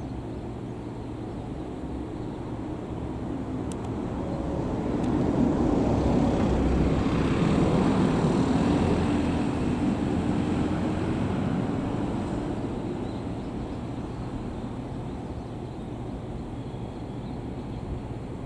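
Freight train of oil tank wagons approaching in the distance behind its locomotive: a steady rumble of the train on the rails that swells in the middle and eases off again.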